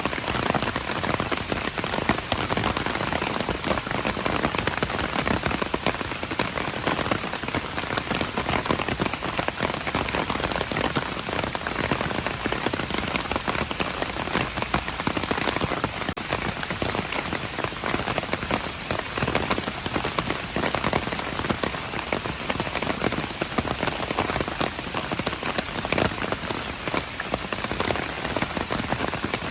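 Steady rain falling on hard surfaces, a dense patter of many small drop impacts.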